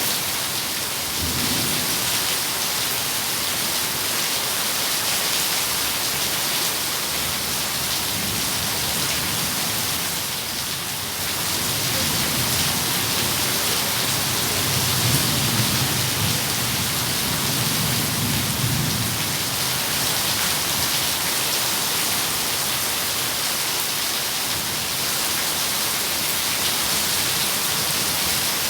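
Steady heavy rain falling, with thunder rumbling low: a short rumble near the start and a longer, louder roll through the middle.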